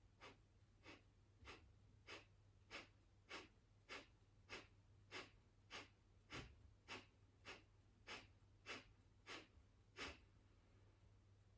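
Kapalabhati breathing: a steady series of about seventeen short, sharp whooshing exhales forced out through the nostrils, each pumped from the lower belly, nearly two a second, stopping about ten seconds in.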